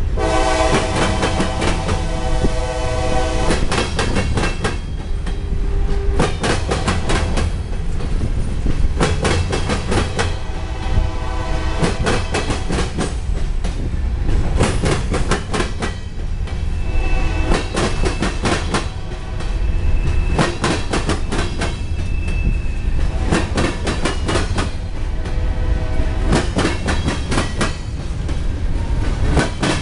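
CSX freight train's covered hopper cars crossing a double diamond rail crossing: the wheels bang over the crossing gaps in rapid clusters of clacks, one group after another as each set of wheels passes. A train horn sounds a multi-note chord for about the first three seconds.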